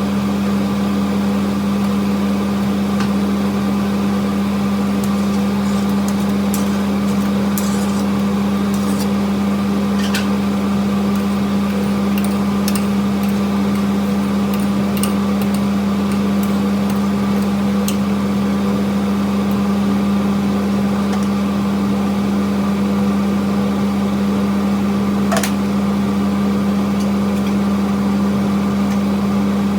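A steady motor hum with a strong fixed low tone that does not change, with scattered faint ticks and one sharper click near the end.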